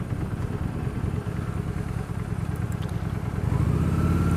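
Honda Shadow Spirit 750's V-twin engine running under the rider at low speed, growing louder about three and a half seconds in.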